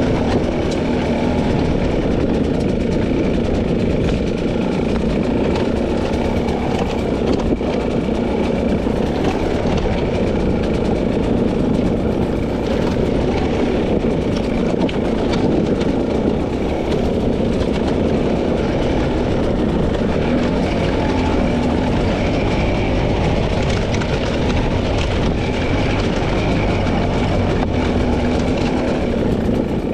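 A 300cc two-stroke dirt bike engine running under load at a fairly steady pitch throughout.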